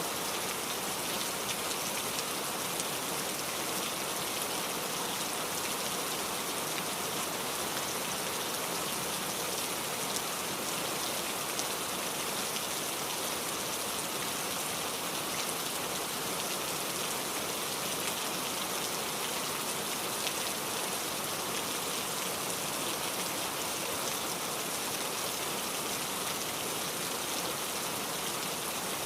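Steady rain falling, an even hiss of drops with fine scattered patter.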